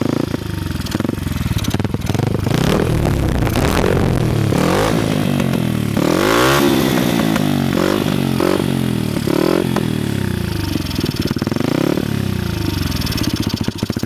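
A Honda CRF50F pit bike's single-cylinder four-stroke engine, built up with a 108 race head and a stroker crank and breathing through a Pro Circuit T4 exhaust, running and being revved again and again. Its pitch climbs and falls with each blip, and the highest rev comes about halfway through.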